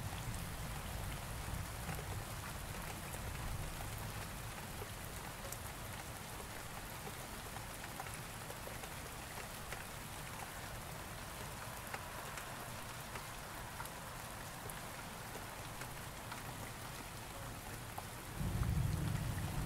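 Steady rain falling, with a low rumble of thunder dying away in the first couple of seconds and another low rumble of thunder breaking in suddenly near the end.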